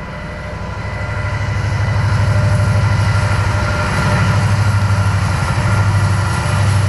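Diesel freight locomotives of a passing train, their engines' deep drone growing louder over the first two seconds and then holding steady.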